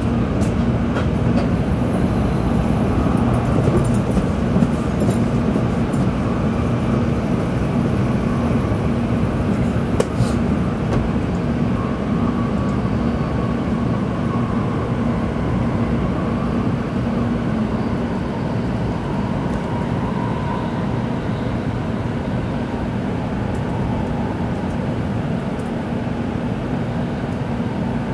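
Tokaido Shinkansen train running, heard from inside the passenger cabin: a steady rumble with a constant hum. A faint whine drifts slightly lower in pitch over the second half, and there are two brief clicks.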